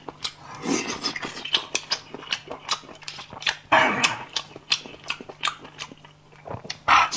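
Close-up mouth sounds of a person eating: wet chewing and lip smacking in many short clicks, with a few brief hummed or breathy vocal sounds between bites.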